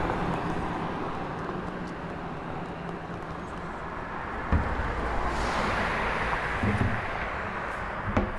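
Street traffic noise from a passing vehicle, fading, with a single thump about four and a half seconds in and a few light clicks near the end.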